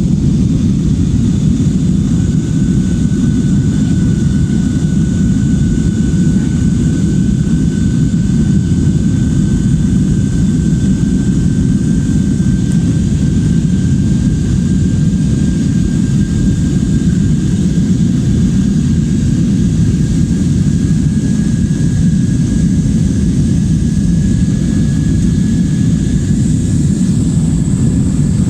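Steady engine and airflow rumble inside the cabin of a passenger airliner in flight, with a faint high whine that rises slowly in pitch.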